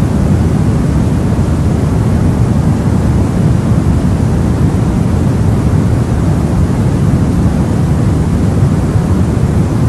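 Steady white-noise sleep sound: an even, unbroken rushing noise, deep and rumbly rather than hissy, with no change in level.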